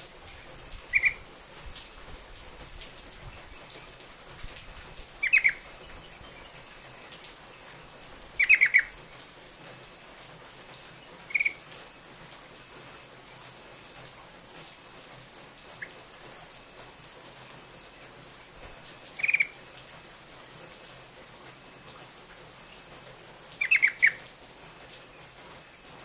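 Yellow-vented bulbul (trucuk) giving short chirping calls, some single and some in quick runs of two or three notes, spaced a few seconds apart over a steady hiss.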